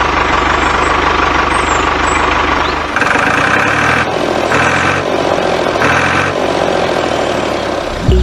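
A tractor engine running steadily. About three seconds in, the sound changes to a rhythmic pulsing that repeats roughly every second and a half.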